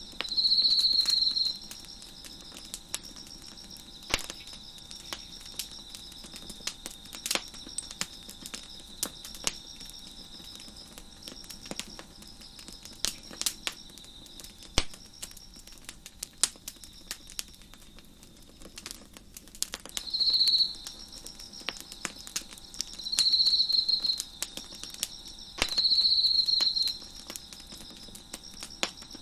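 Wood fire crackling with scattered sharp pops over a steady high cricket trill. Four times, a nearer insect trills loudly at the same pitch for about a second.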